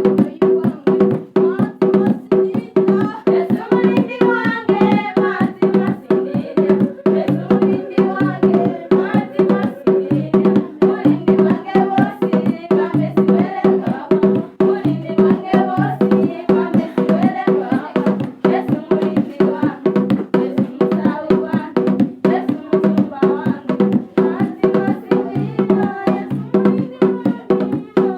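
Gospel song: voices singing over a fast, steady clicking percussion beat and sustained low notes.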